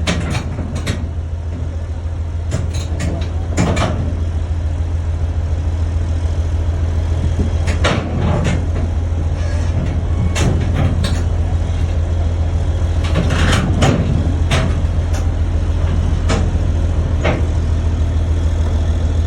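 Heavy diesel engine running steadily, with sharp metallic knocks scattered through, several coming in quick clusters.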